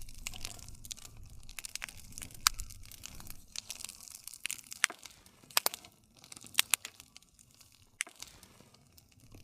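Wood campfire crackling, with frequent small crackles and a few louder sharp pops over a low steady rumble.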